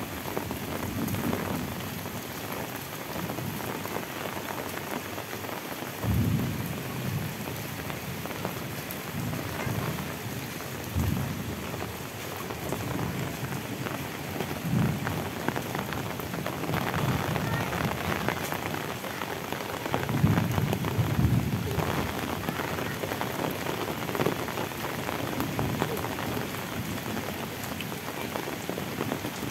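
Heavy rain falling steadily on a paved lane, roofs and leaves, a dense even hiss, with short low rumbles every few seconds.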